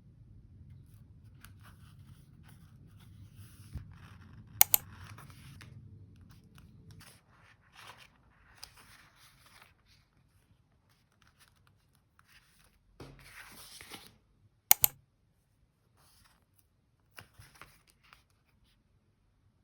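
Paper being handled and snipped with scissors for journal decorating, with soft rustles and scratches. Two loud, sharp double clicks come about five seconds in and again about fifteen seconds in.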